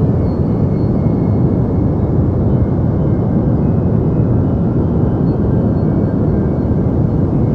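Deep white noise for sleep: a steady, even rumble with most of its weight in the low end and little treble, unchanging throughout.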